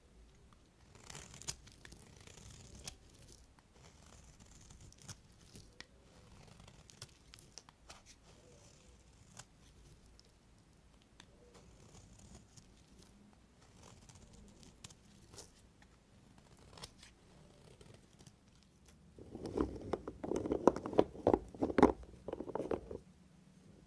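Knife cutting and scraping bars of soap: faint light scrapes and clicks, then near the end a loud run of crisp, crunchy cuts lasting about three seconds.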